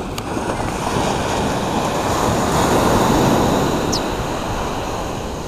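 Sea surf: a wave breaks and washes up the beach, swelling to a peak about halfway through and then easing off.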